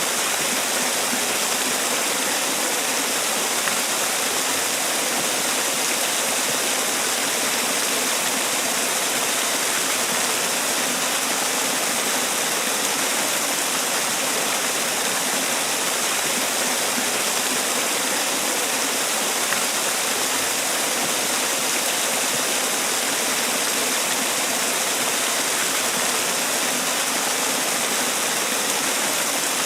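Man-made waterfall: water falling and splashing in a steady, even rush.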